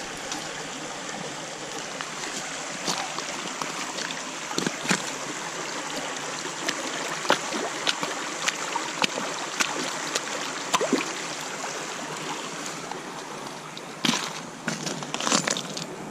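Water sloshing and trickling with small splashes and clicks as a dug-up insulator is washed off by hand, over a steady wash of flowing water; a louder bout of splashing near the end.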